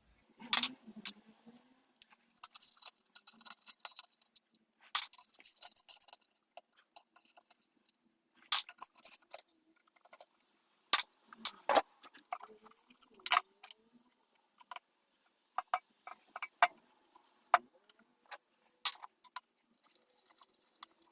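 Irregular sharp metallic clinks and taps, about a dozen clear ones with quiet gaps between, as small bolts and hand tools are handled during an engine strip-down.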